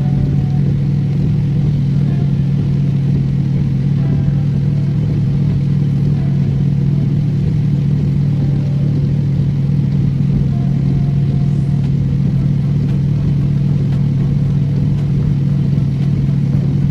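Car engine idling, heard inside the cabin as a steady low hum that does not change.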